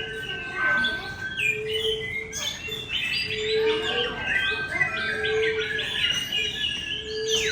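Many birds chirping and calling over one another, with a low, steady note that repeats about every second and a half beneath the chirps.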